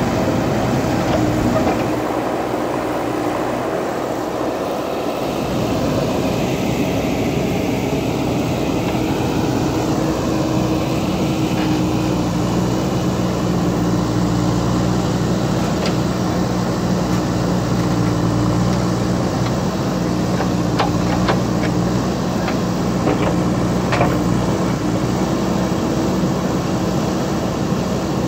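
JCB backhoe loader's diesel engine running steadily, its low note easing off for a few seconds near the start. A few sharp clanks come in the second half.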